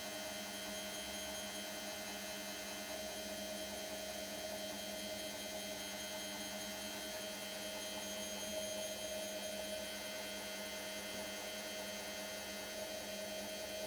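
Indesit IWC 71252W washing machine's motor giving a steady whine as the empty drum turns on a 600 rpm spin that has not yet reached full speed.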